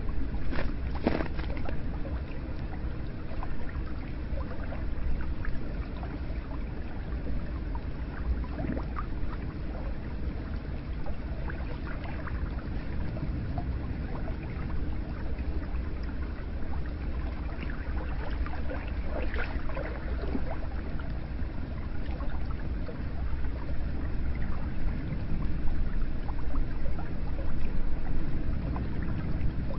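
Hot spring water running steadily, a continuous rush of flowing water with a few brief sharper splashes.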